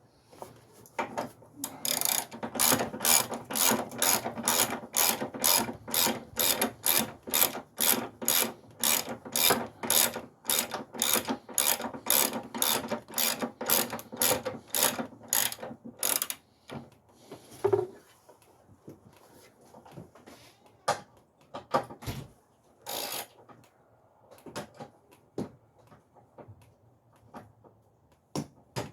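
Hand ratchet wrench clicking in quick, even strokes, about three clicks a second, as engine mount bolts are run down and tightened. The steady ratcheting stops about sixteen seconds in, leaving a few scattered clicks and knocks.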